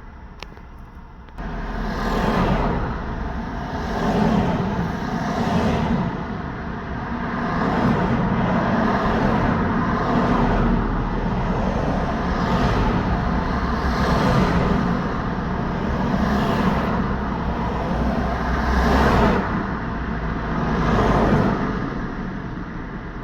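Road traffic: a steady stream of cars and trucks passing one after another, each swelling up and fading away as it goes by. The sound comes in abruptly about a second and a half in, after a quieter stretch.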